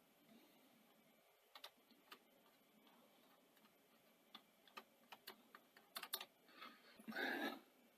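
Faint, scattered clicks and taps of small parts and tools being handled on a Betamax tape deck mechanism, with a brief louder rustle near the end.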